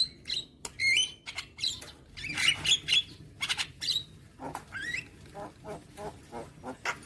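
Javan myna (jalak kebo) calling: a varied string of harsh squawks, short rising whistles and clicks, ending in a fast rattle of short repeated notes, about five a second.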